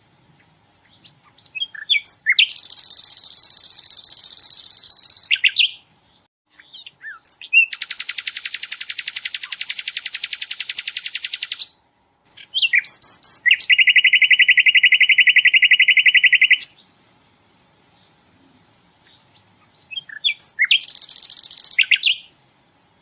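Sikatan londo singing: long, very fast machine-gun trills of several seconds each, at a different pitch each time, one high, one spread wide, one lower, with short sharp chips and quiet pauses between the trills.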